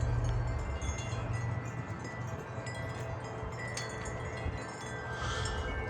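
Several metal wind chimes ringing in gusty wind, struck over and over so that many clear tones overlap and hang. Wind rumbles on the microphone at first and eases off about a second in.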